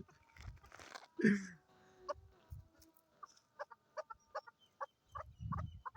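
Chukar partridge clucking: a run of short, sharp 'chuk' notes, coming two or three a second from about three seconds in.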